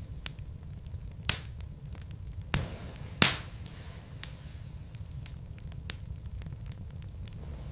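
Wood fire burning in a fireplace: scattered crackles over a steady low rumble of flames, with three sharper pops from the logs, the loudest a little over three seconds in.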